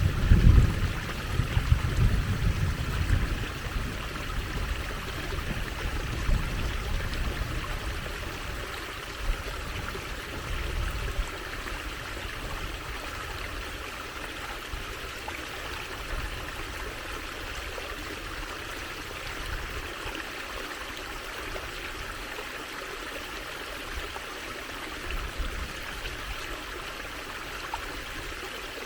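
Steady trickling and flowing water of a small stream, an even hiss without breaks. Uneven low rumbles come and go in the first third, then die down.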